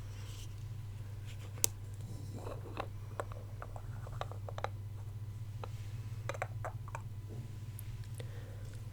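ASMR mouth sounds: soft, wet mouth clicks close to the microphone, coming in small scattered clusters with one sharper click early on. A steady low electrical hum runs underneath.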